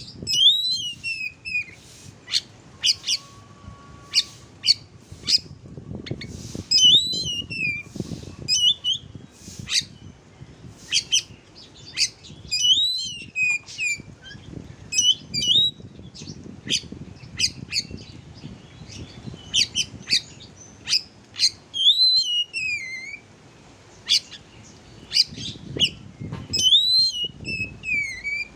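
Oriental magpie-robin (kacer) singing: rapid sharp chip and click notes, broken every few seconds by a loud whistled phrase that slides down in pitch.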